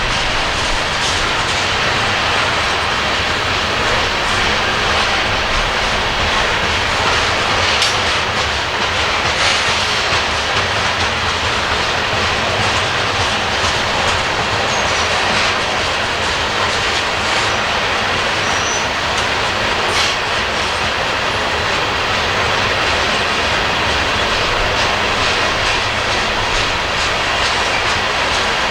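Coal train's loaded hopper cars rolling steadily past, wheels clicking over the rail joints.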